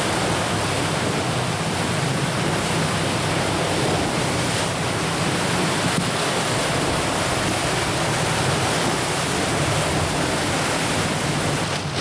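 Steady rushing noise without a break, of the kind made by sea water or by wind on the microphone.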